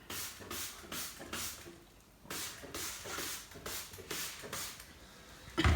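Scouring sponge scrubbed back and forth on fireplace glass: rapid scratchy rubbing strokes, about three a second, with a short pause about two seconds in, and a single thump near the end.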